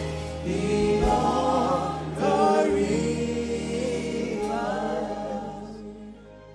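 Gospel worship singing: voices holding long notes over steady instrumental backing, dying away near the end.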